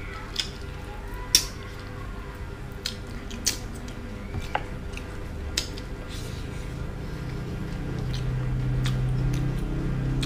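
Close-up eating sounds: a man bites and chews a piece of spiced soy-sauce chicken held in his fingers, with scattered wet smacks, squishes and small clicks, thinning out after about six seconds.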